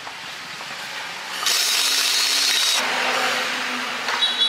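A power tool runs for about a second and a half with a harsh hiss, then cuts off while its low hum fades over the next second; a few light clicks follow near the end.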